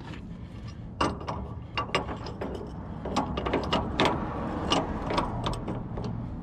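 Hand ratchet clicking in short, irregular runs of strokes, with the odd metal clink of tools on a car's steering linkage.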